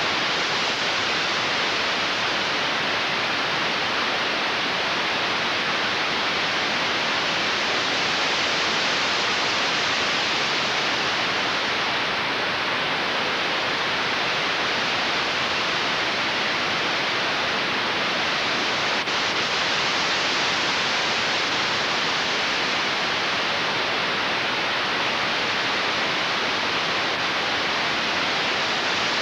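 Steady, even hiss of static noise with nothing else in it, a silent recording's noise floor in place of any soundtrack.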